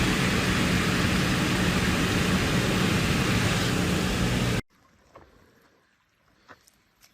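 Loud, steady roar of rushing air over a low engine hum, as from an airliner in flight heard at an open window; it cuts off abruptly about four and a half seconds in, leaving faint clicks.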